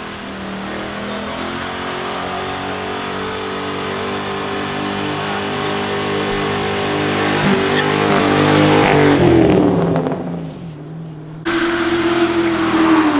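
A car's engine running as the car approaches, growing louder and rising in pitch to a peak about nine seconds in, then dropping in pitch and fading as it passes by. After a sudden jump, another car engine is heard, its note sliding down near the end.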